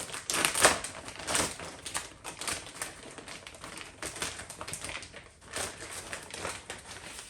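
Bubble wrap being pulled off and crumpled by hand: a fast, irregular run of crinkles and crackles.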